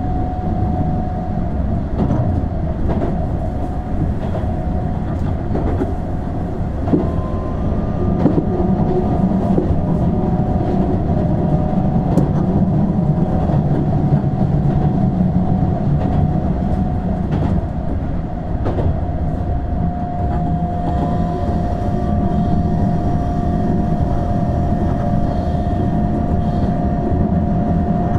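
Keihan 7200 series electric train running at speed, heard from inside the car: a steady rumble of wheels on the rails with scattered rail-joint clicks and a steady high hum.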